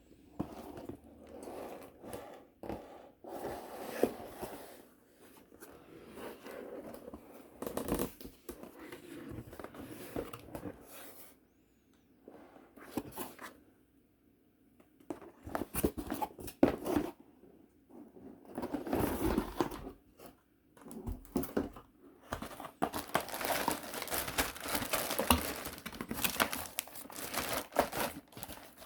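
Plastic wrapping and cardboard of a model kit box being handled: irregular crinkling and rustling with small clicks and knocks. It pauses briefly about twelve seconds in and is busiest near the end.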